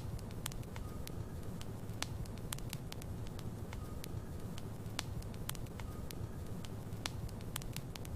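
Wood logs burning in a fireplace, crackling with many sharp irregular pops over a steady low rumble of the flames.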